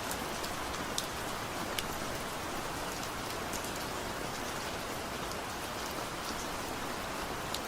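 Steady gentle rain falling, with occasional individual drops ticking sharply on a nearby surface.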